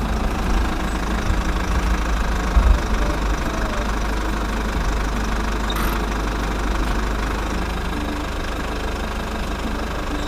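Tractor engine idling with a steady, knocking chug.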